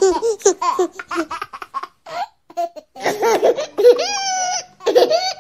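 A young child laughing in a high voice: quick choppy bursts, then after a short pause longer, drawn-out squealing peals.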